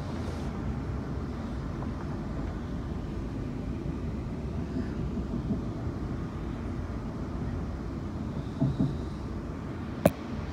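Passenger train running, heard from inside the carriage: a steady low noise of the wheels on the track. Two short knocks come late on, and a sharp click just before the end is the loudest moment.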